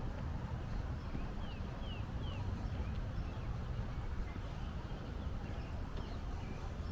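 Steady outdoor background noise, mostly a low rumble. A small bird gives three quick falling chirps about a second and a half in, with a few fainter chirps later.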